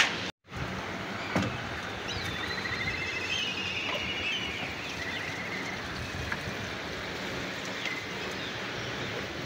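Steady outdoor background noise with birds chirping in short repeated trills for a few seconds in the middle, a single knock about a second and a half in, and a brief drop to silence just after the start.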